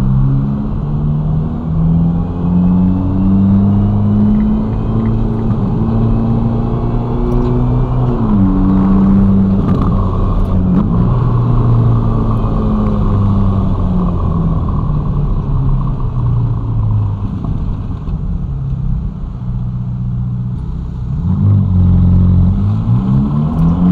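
Ferrari Roma's twin-turbo V8 engine heard while driving, its note rising and falling with throttle and gear changes. It runs louder, with revs climbing, near the end.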